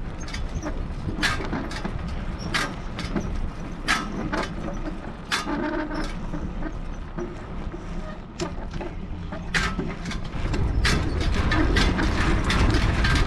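Wind buffeting a body-mounted action camera's microphone during a bike ride over rough ground, with many sharp rattles and knocks from the bike. It gets louder about ten seconds in.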